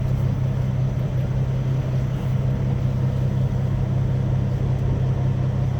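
Semi truck's diesel engine idling, a steady low hum with no change in pitch.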